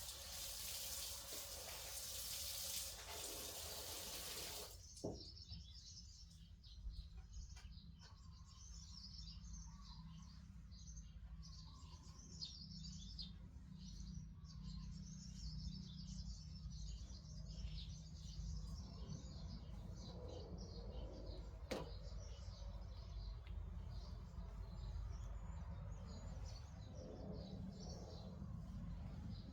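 Running water, shut off suddenly about five seconds in. Birds then chirp for the rest of the time over a low steady rumble.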